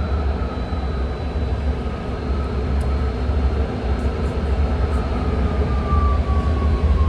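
BART train running, heard from inside the car: a steady low rumble with a thin motor whine that slowly falls in pitch as the train slows toward a station, and a few faint ticks.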